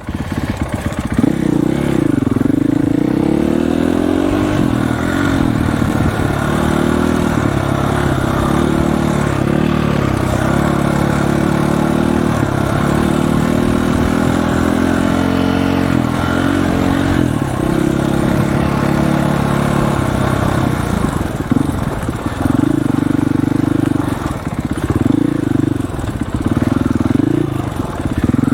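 Dirt bike engine running while being ridden, its revs repeatedly climbing and dropping.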